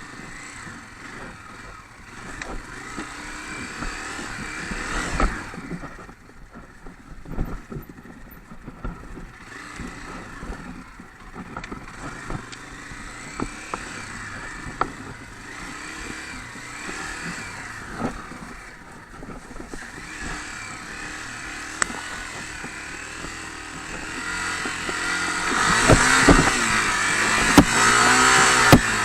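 Honda CRF250 dirt bike's single-cylinder four-stroke engine running and revving up and down as it is ridden, with scattered sharp clicks and knocks. It gets louder with hard revving for the last few seconds.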